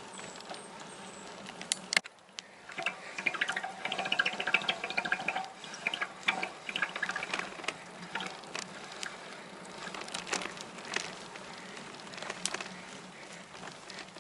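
Bicycle rolling slowly over a narrow dirt woodland trail, with the tyres crunching and the bike ticking and rattling over the ground. There is a sharp click about two seconds in, and a brief wavering tone a few seconds in.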